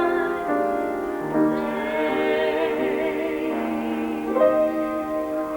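A sung song with instrumental backing playing from a television, with long sustained notes and a held, wavering note in the middle.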